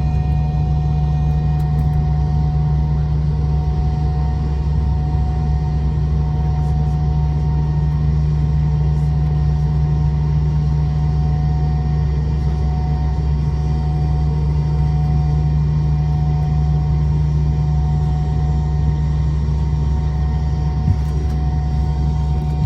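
McDonnell Douglas MD-90 jet airliner's IAE V2500 turbofan engines running steadily at low taxi power: a constant low rumble with a steady whine of two tones.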